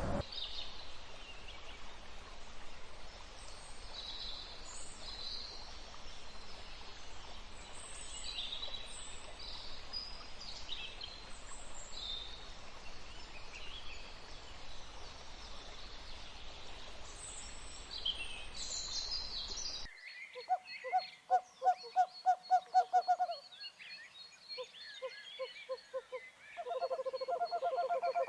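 Wild birds calling: scattered high chirps and short song phrases over a steady background hiss. After a sudden change of recording, a bird gives a fast run of loud, repeated low notes, with a second run near the end.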